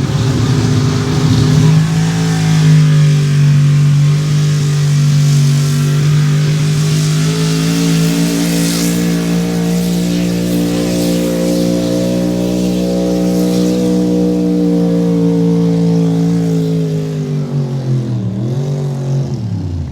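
Truck engine held at high revs under full load during a truck pull, its pitch nearly steady and rising slightly for most of the run. Near the end the revs drop sharply as the throttle is let off.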